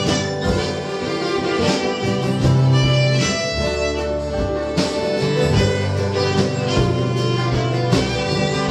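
Acoustic band playing an instrumental break, a fiddle carrying the melody over strummed guitar.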